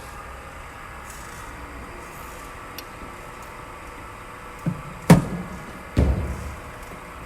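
A cricket ball pitching with a small thump, then struck by the bat with a sharp crack about five seconds in, followed about a second later by a duller, heavier thud, over a steady low background hum.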